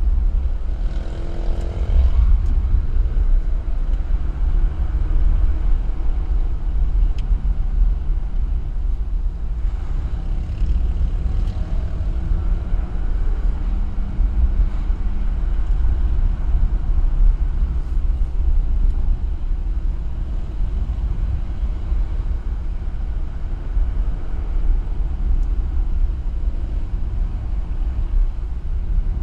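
A car driving on a road: a steady low rumble of engine and road noise, with the engine note rising and falling a little.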